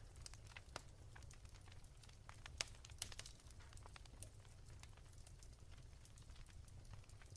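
Wood fire crackling softly, with irregular small pops and snaps and a sharper snap about two and a half seconds in, over a low steady hum.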